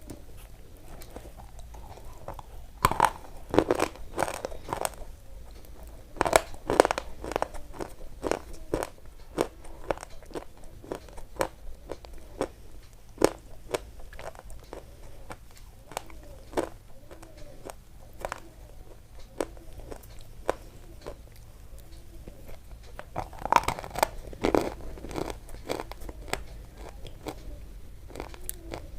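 Close-up crunching and chewing of crisp food: irregular sharp crunches, coming in louder clusters of bites a few times, with quieter chewing between.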